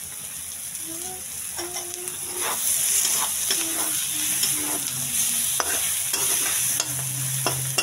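A flat metal spatula stirring and scraping a boiled-egg and onion fry around a metal kadhai while the oil sizzles. The sizzle gets louder about two and a half seconds in, and the spatula clicks against the pan a few times in the second half.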